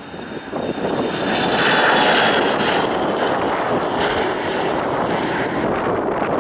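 Airliner's engines passing close by: the sound swells over the first second, peaks about two seconds in and stays loud, with a high whine falling slightly in pitch.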